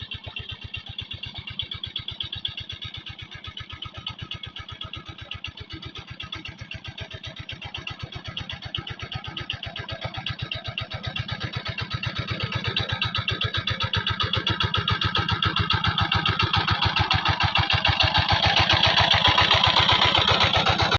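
Engine of a tractor ploughing a rice paddy, chugging steadily with rapid, even firing pulses. It grows louder from about halfway through.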